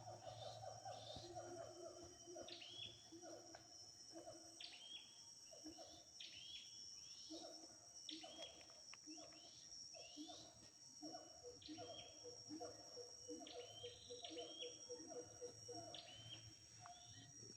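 Faint wild birds calling in short repeated chirps, with a lower repeated two-note call and a steady high insect drone throughout.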